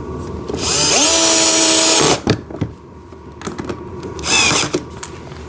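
A power drill/driver driving screws. Its motor spins up, rising in pitch to a steady whine for about a second and a half, then gives a second, shorter burst near the end, with small handling clicks in between.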